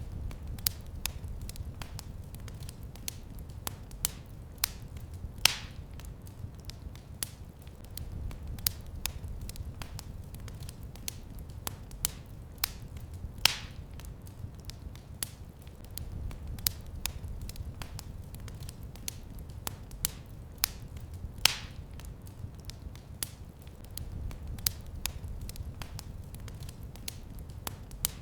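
Wood fire in a fireplace crackling steadily, with sharp snaps and a few louder pops over a low, even rumble of the flames.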